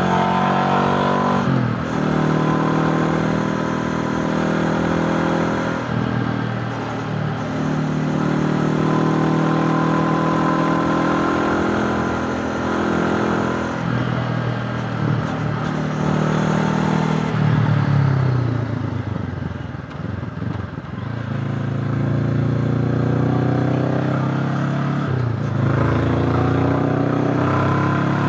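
Honda CB500X's parallel-twin engine pulling the motorcycle along, its pitch climbing between several gear shifts. About two-thirds of the way through it eases off to a lower, quieter run, then picks up and climbs again.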